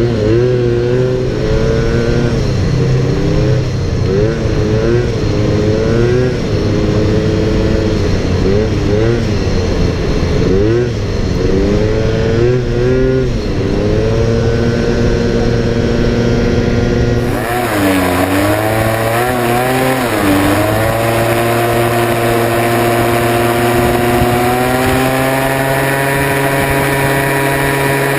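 Small motor scooter engine running under way, its pitch rising and falling with the throttle for the first half. The sound changes abruptly partway through, then settles into a steady drone that climbs gently near the end.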